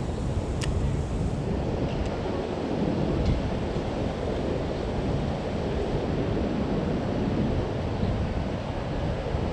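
Wind buffeting the microphone: a steady low rumbling rush that flutters in strength, with one faint click about half a second in.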